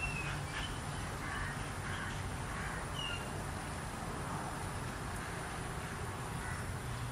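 Outdoor ambience: a few short bird calls in the first three seconds, over a steady low rumble and a thin, steady high-pitched tone.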